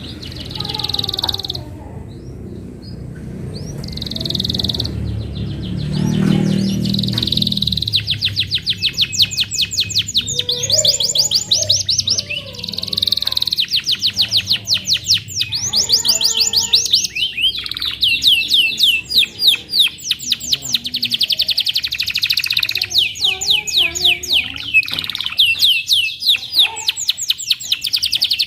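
Domestic canary singing: a few short phrases at first, then from about eight seconds in long, fast trills of rapidly repeated high notes, one after another with hardly a pause.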